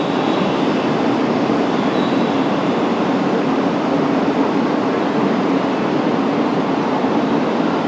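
E5 series Shinkansen train moving along the platform track, a steady rumble of wheels and running gear.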